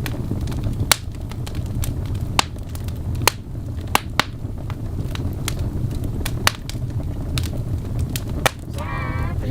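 Fireplace fire crackling: irregular sharp pops over a steady low rumble of the flames. A voice starts just before the end.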